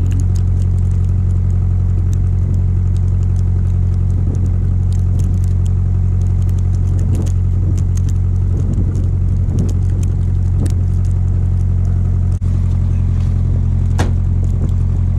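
A vehicle engine idling with a steady, even low drone, with scattered light crackles over it.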